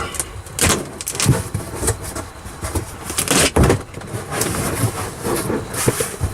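Irregular handling noise from working sound-deadening sheets into the car's roof: rustling and scraping with several short knocks, the loudest about three and a half seconds in.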